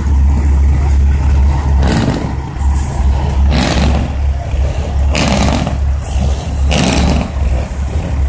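Heavy diesel truck engine idling with a steady low rumble. Short bursts of hiss cut in about every second and a half.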